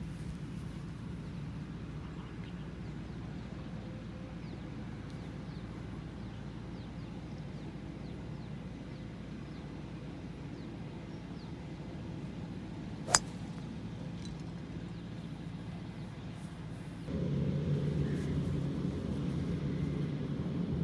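Steady low outdoor rumble with a single sharp click about thirteen seconds in: a golf club striking the ball. The rumble gets suddenly louder a few seconds later.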